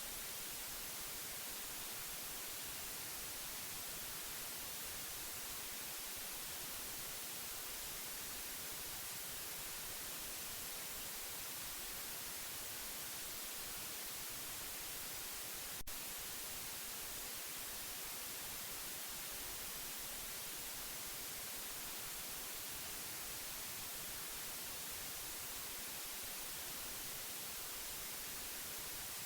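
Steady white noise, an even hiss with no change in level, played as a sleep aid for a baby. A single faint click sounds just past halfway.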